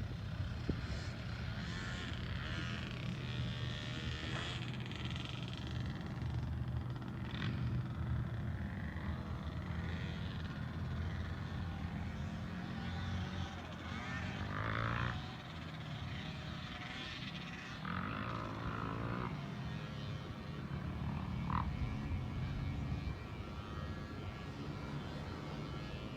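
Truck engine running steadily, a low hum, with a few brief higher-pitched sounds over it.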